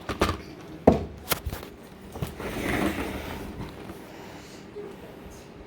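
A few sharp knocks in the first second and a half, then a short rustle about two and a half seconds in.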